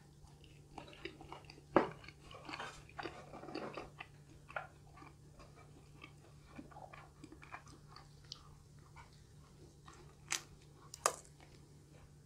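A person chewing a mouthful of pizza crust: wet chewing and smacking with scattered sharp clicks, loudest about two seconds in and twice near the end. A faint steady hum runs underneath.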